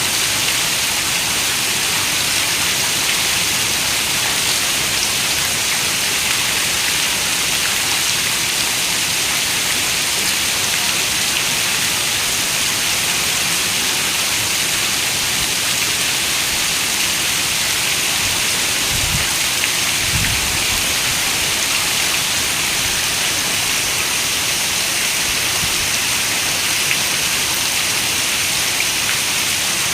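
Steady rain falling, a dense even hiss. Two brief low rumbles come close together about two-thirds of the way through.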